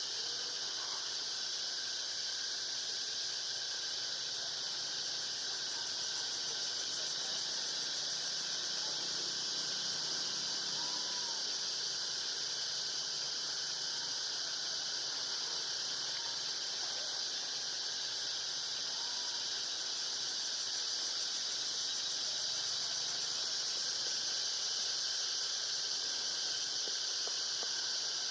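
Steady, high-pitched drone of an insect chorus in the trees, holding an even level throughout, with a few faint short calls now and then.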